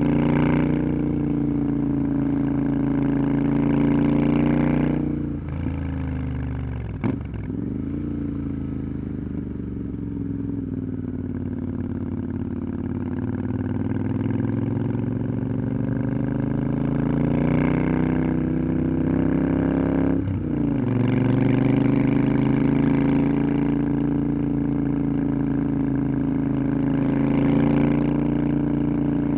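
Motorcycle engine running on the road. Its note drops about five seconds in, with a sharp click a couple of seconds later, climbs slowly again, dips briefly around twenty seconds in, then holds steady.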